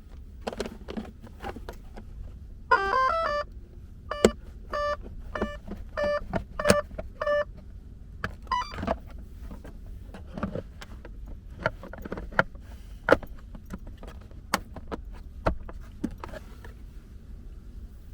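Small electronic device beeping: a short warbling chirp, a run of evenly spaced pitched beeps, then another chirp, with sharp clicks and knocks of handling throughout.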